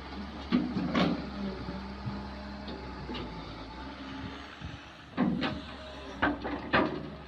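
Kobelco excavator's diesel engine running steadily, with sharp clanks and knocks from the digging: a couple about a second in and a cluster near the end.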